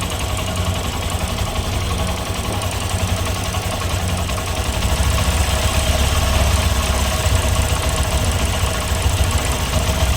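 Honda SP Shine BS6 motorcycle's single-cylinder engine running at idle with a fast, even beat, getting a little louder about halfway; the owner presents the noise as engine knocking.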